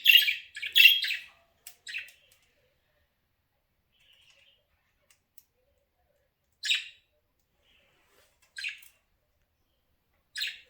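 Pet budgerigar chirping: a quick run of high chirps in the first second or so, then single short calls every two seconds or so.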